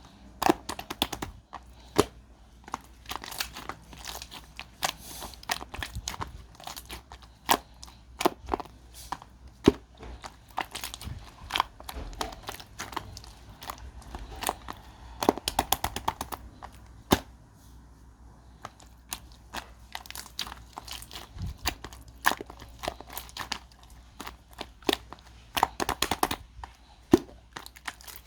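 Hands handling something crunchy and crinkly: a steady run of irregular sharp crackles, crunches and pops.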